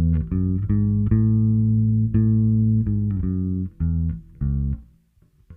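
Electric bass (a Fender Custom Shop '58 with La Bella flatwound strings) playing a simple line of single plucked notes, a few held for about a second, with a brief pause near the end.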